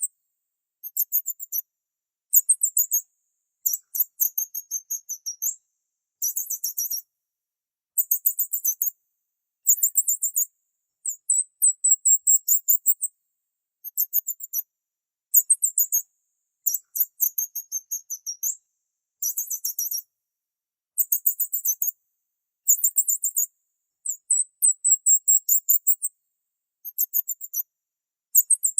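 Birds chirping in high, rapid trills, coming in repeated bursts of one to two seconds separated by short silences.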